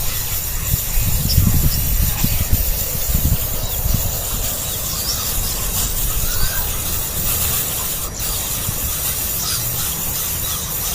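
Nestling songbirds begging: scattered thin, high, rising cheeps over a steady hiss, with a low rumble that is strongest in the first few seconds.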